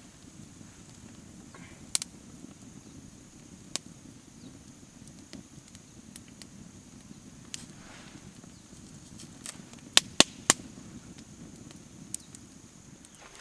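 Campfire burning with a low steady rush and scattered sharp crackling pops, three loud pops in quick succession about ten seconds in.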